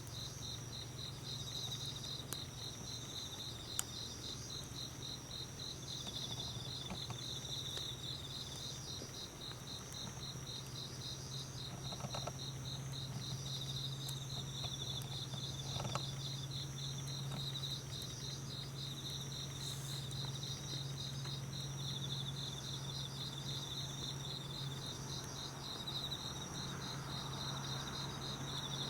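Autumn field crickets and other night insects chirping in continuous rapid pulsed trains, at least two kinds singing at different high pitches. A steady low hum runs underneath, and a few faint crackles from the wood fire come through.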